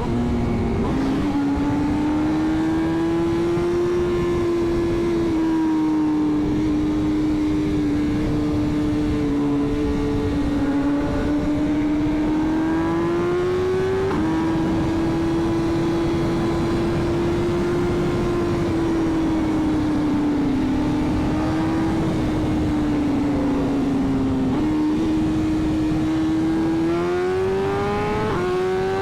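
Sport motorcycle engine holding high, steady highway revs, the pitch drifting with the throttle. It climbs and then drops with an upshift about halfway through, and climbs again near the end, over low wind rumble on the microphone.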